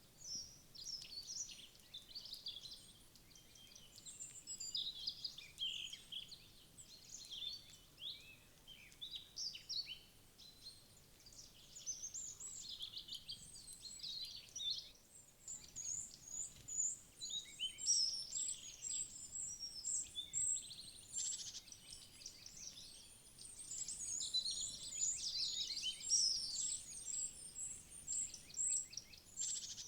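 Woodland songbirds chirping and singing, many short overlapping calls and trills at once, busiest in the second half.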